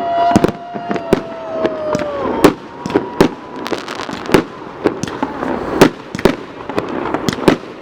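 Fireworks going off: a rapid, irregular string of sharp bangs, with a whistling firework's tone slowly falling in pitch over the first two and a half seconds.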